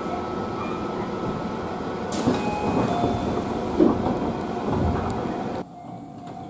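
Cabin noise inside a Tobu 30000 series electric train car as it comes to a stop. About two seconds in, the doors slide open and let in a rush of outside hiss, with a few knocks after. Near the end it drops to quieter platform sound with the steady hum of the stopped train.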